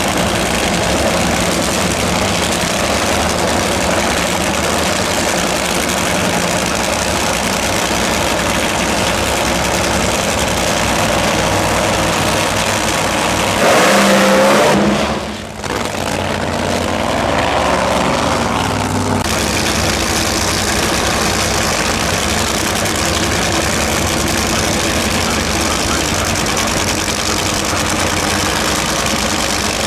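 Race car engines running loud and steady, with a louder surge about fourteen seconds in that drops away sharply.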